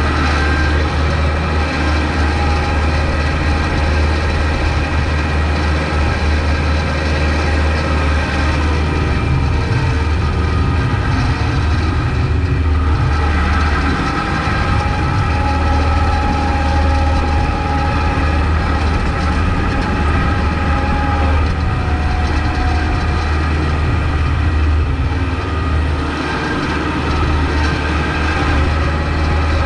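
Kubota MX5200 tractor's four-cylinder diesel engine running steadily, a deep hum with small shifts in pitch as it works.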